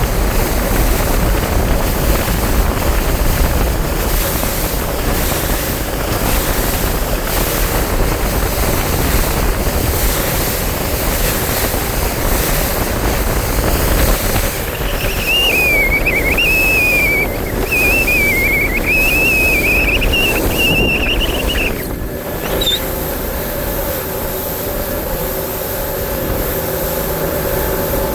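Bass boat running on open water: steady motor and water noise with wind buffeting the microphone. In the middle a high, wavering whistle-like tone lasts several seconds, and after it the wind noise drops and a steady hum comes through.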